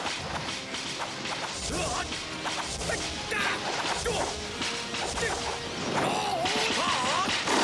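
Staged martial-arts fight sound effects: whooshing swings, whacks and crashing impacts over dramatic background music.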